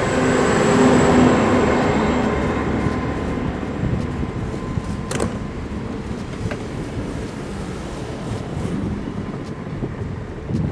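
A train moving along the platform, its hum loudest about a second in and then fading as it draws away. There is one sharp click about five seconds in.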